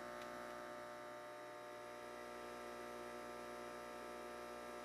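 Faint, steady electric hum from the GreenStart ignition system's air pump blowing air into the firebox during a push-button ignition, before the wood has caught.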